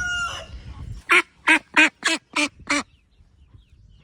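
A duck quacking six times in a quick, even run, about three quacks a second, just after the last of a rooster's crow dies away.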